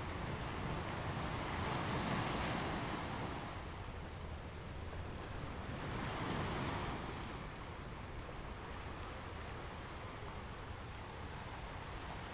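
Sea surf: waves washing in over a steady low rumble, swelling twice, about two and six seconds in.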